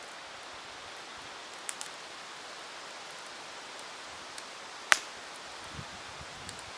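Wood campfire burning with a steady hiss and scattered crackles: two small snaps about two seconds in and one sharp, loud pop a little before the end.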